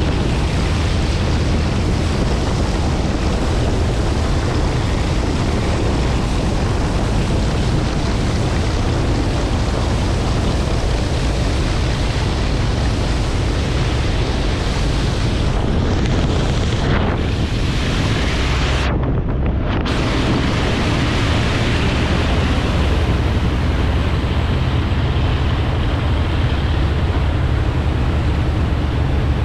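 Heavy wind buffeting on the microphone over the rush of water and a steady low engine drone, as from a boat running at speed. About two thirds of the way through, the high end briefly drops out.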